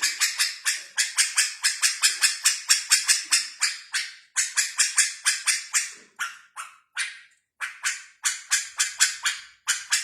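A bird calling in a fast run of short, harsh notes, about five a second, with a few brief breaks in the second half.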